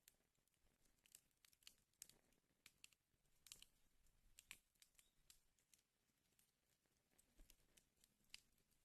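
Wood fire crackling in a fireplace: faint, irregular snaps and pops, several a second, over a soft hiss.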